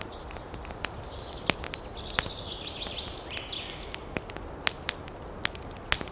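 Campfire crackling, with irregular sharp pops and snaps of burning wood. From the start until about three and a half seconds in, a high, wavering chirping call rises over it.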